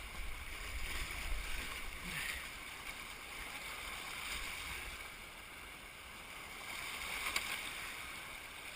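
Creek water rushing over a rocky, shallow riverbed, a steady hiss, with brief louder splashes about two seconds in and again near the end.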